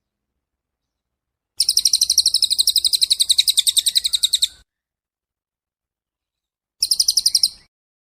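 A songbird's rapid trill, about ten even notes a second, lasting about three seconds, then a second, shorter trill near the end.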